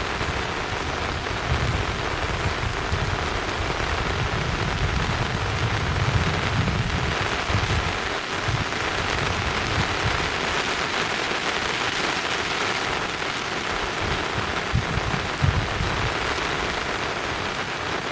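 Steady rain falling, with low rumbles coming and going.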